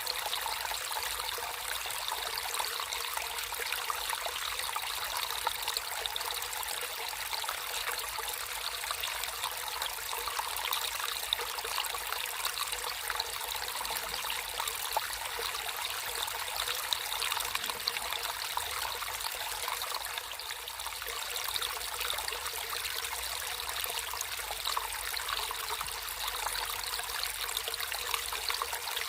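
Water trickling and splashing steadily in a small natural stream, an even bubbling wash with no change.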